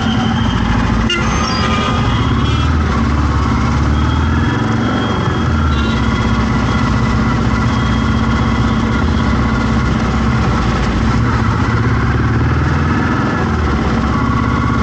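Road traffic: motorcycle and car engines running and idling close by, with a short click about a second in.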